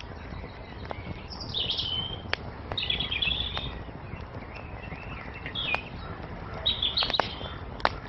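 Wood fire crackling with scattered sharp pops over a low steady rush, while small birds chirp in several quick bursts of high twittering.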